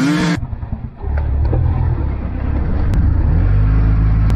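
A steady low mechanical rumble, like a running engine, that grows louder a little over three seconds in.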